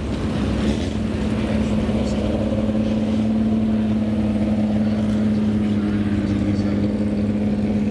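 Vintage racing car engine idling steadily at a fast, even idle.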